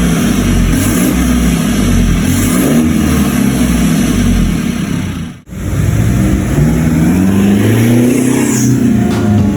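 Toyota Hilux engine revving through an aftermarket NDK exhaust (downpipe, resonator and tailpipe), its pitch rising and falling. It cuts off abruptly about five and a half seconds in, and a second burst of revving follows.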